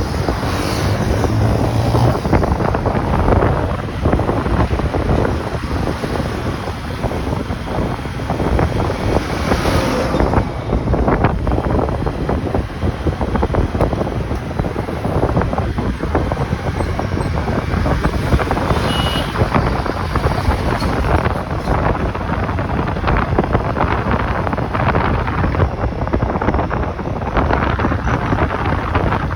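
Wind rushing over the microphone on a moving motorcycle, mixed with the engine and road noise of the ride.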